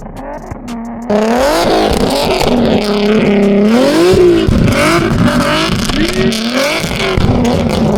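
Car engine revving hard during drifting, the revs climbing and dropping again and again; it jumps suddenly louder about a second in.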